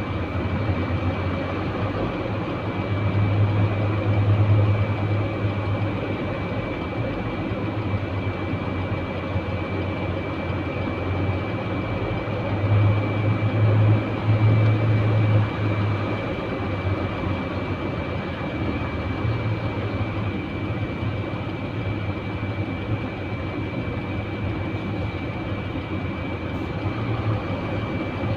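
Truck engine running steadily, its low rumble swelling twice, with a thin steady high whine throughout.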